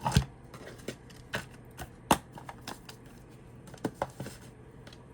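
Tarot cards and their deck box being handled: scattered light clicks and taps, one sharper snap about two seconds in.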